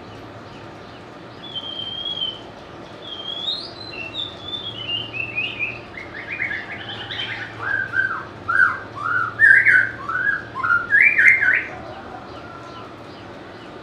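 White-rumped shama singing: a long, varied run of clear whistled notes and quick slurred phrases. It starts a second or two in and grows louder toward the end.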